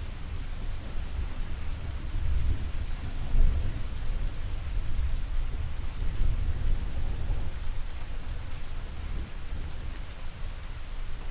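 Steady rain with a low rolling rumble of thunder beneath it, swelling about two to four seconds in and then settling.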